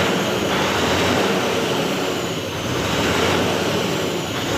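Isuzu 6WF1 V8 diesel engine revved and held at high speed, running loud and steady with slight swells in level. The cooling fan now turns with the crankshaft, its viscous fan clutch freshly refilled with silicone oil.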